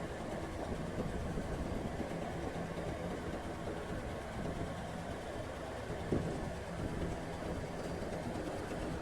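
Heavy diesel engine running steadily at a low, even speed, with a single knock about six seconds in.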